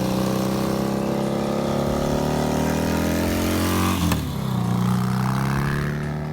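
Motorcycle engine accelerating, its pitch climbing steadily, then dropping sharply about four seconds in as it shifts up a gear before climbing again.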